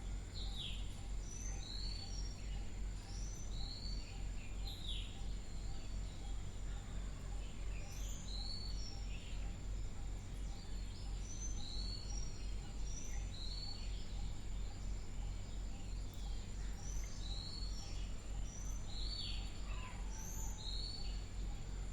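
Birds chirping in the background: short, high chirps repeated many times throughout, over a steady low electrical hum and a faint thin high whine.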